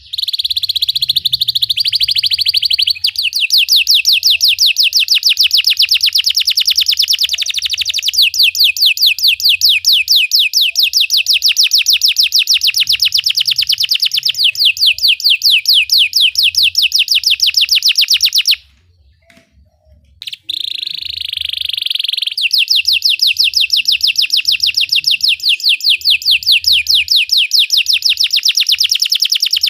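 Belgian canary singing a loud song built of long rolls of rapid, evenly repeated high notes. It breaks off for about two seconds past the middle, then starts again with a smoother trill before the rapid rolls return.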